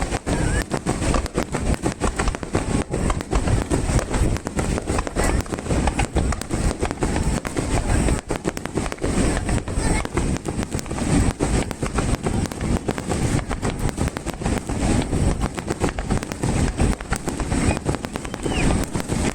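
Fireworks starmine barrage: a dense, unbroken volley of shells bursting and crackling one over another, with no pause.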